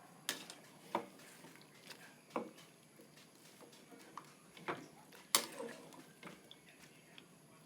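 A few sharp clicks and knocks of kitchen utensils against cookware, spaced irregularly, the loudest about five seconds in.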